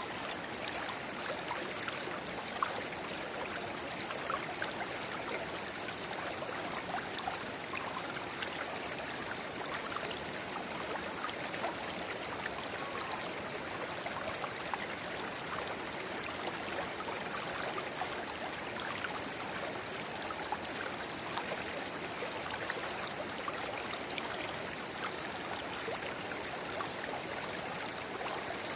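Shallow river babbling where a spring-fed rivulet about 30 cm wide pours into it: a steady rush of water, dotted with many small splashes and drips.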